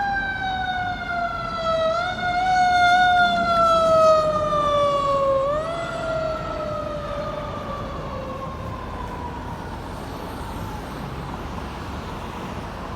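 Fire apparatus siren in a slow falling wail, pushed back up in pitch twice, then winding down and fading out about nine seconds in, over a steady low rumble.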